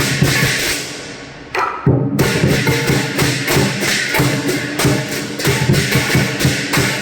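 Lion dance percussion band playing: a Chinese lion drum beaten in a fast, dense rhythm with crashing cymbals and gong. The playing thins out about a second in and comes back in suddenly about half a second later.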